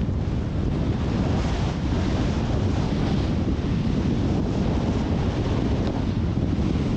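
Wind buffeting the microphone: a steady, loud rumble with hiss above it.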